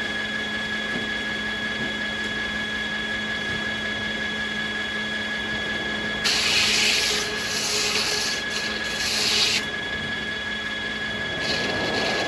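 Sawmill machinery running with a steady whine. About six seconds in, a saw cuts through American beech for about three seconds with a loud hissing rush, and it cuts again briefly near the end.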